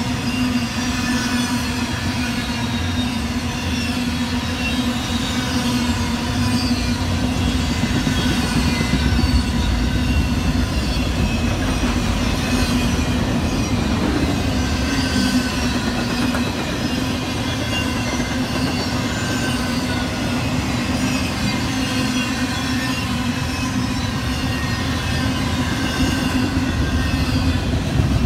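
A train's cars rolling past, their steel wheels running on the rail with many short high squeals that slide down in pitch.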